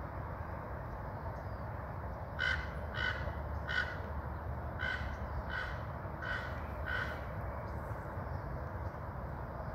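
A bird gives a run of seven short calls, each a fraction of a second apart, starting about two and a half seconds in and stopping after about seven seconds. A steady low rumble runs underneath.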